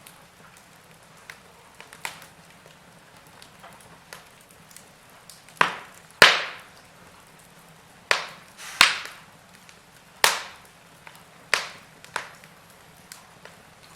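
Log fire crackling: irregular sharp pops and snaps from burning wood over a low steady hiss, the loudest pops about six and nine seconds in.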